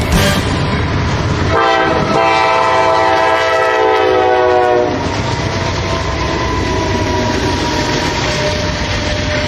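Train horn sounding one long chord of several tones for about three seconds, its pitch sagging slightly as it goes, over the rumble of the passing train. After the horn, the train keeps rolling by with steady wheel and rail noise and a faint thin squeal.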